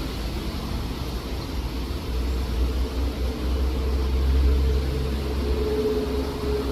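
Wind buffeting the microphone with a low, uneven rumble. A faint steady hum comes up in the second half and grows stronger near the end.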